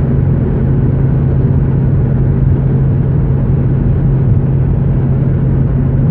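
Steady drone of a car being driven, heard from inside the cabin: engine and road noise with a constant low hum.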